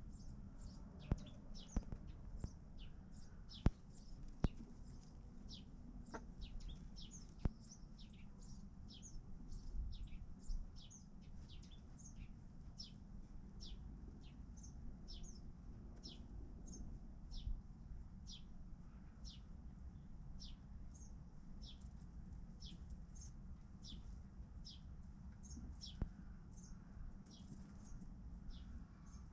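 Birds chirping: a steady run of short, high, downward-sliding chirps, about two a second, over a low rumble, with a few sharp clicks.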